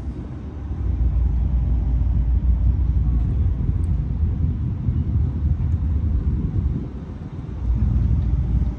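Low, steady rumble of car engines and exhausts, easing briefly about seven seconds in.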